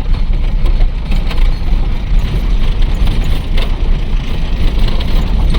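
Loaded truck driving over an unpaved dirt road: a dense low rumble from engine and tyres with uneven knocking and rattling from the cab and body.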